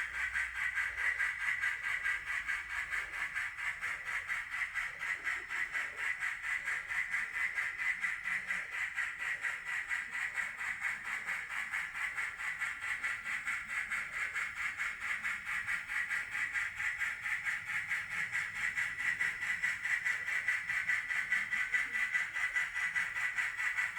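N scale model of Union Pacific 4014 steam locomotive and train running on the layout: a steady hiss with a fast, even pulse.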